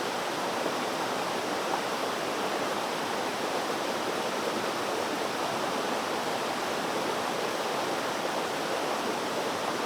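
Water flowing steadily in a stream, an even rushing sound without breaks.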